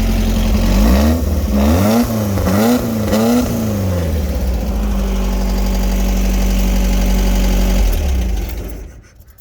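VW sandrail engine idling while warming up after a cold start, blipped about four times in quick succession about a second in, then settling back to a steady idle before shutting off near the end.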